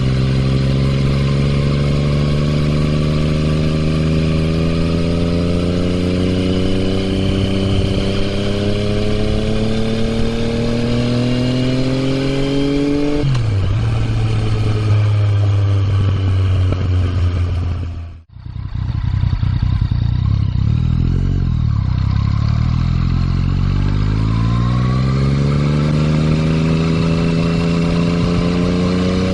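Yamaha MT-09's three-cylinder engine through an Akrapovič exhaust, ridden under throttle: the engine note climbs steadily for about thirteen seconds, drops suddenly as the revs fall, holds steady, then climbs again near the end. The sound briefly cuts out about eighteen seconds in.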